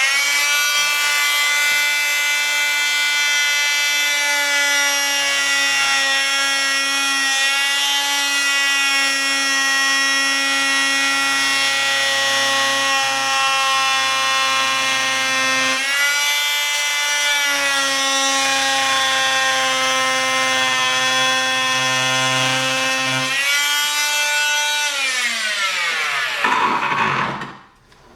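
Electric power saw cutting a piece for a blast-gate slider: the motor spins up, runs with a steady whine that sags in pitch a few times as the blade takes load, then winds down near the end.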